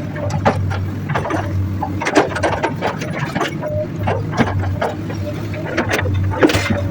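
Excavator at work on rocky ground. Its diesel engine runs steadily under a run of irregular knocks and scrapes from the bucket and rock.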